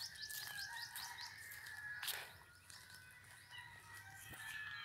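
Faint birds chirping: a quick run of short high notes over the first second or so, over a thin steady high tone. A brief rustle or knock about two seconds in.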